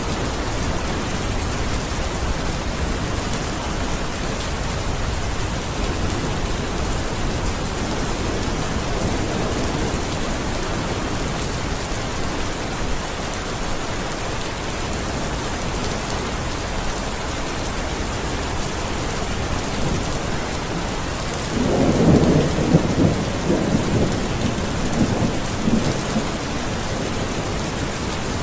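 Steady rain falling, with a roll of thunder rumbling for several seconds about three quarters of the way through.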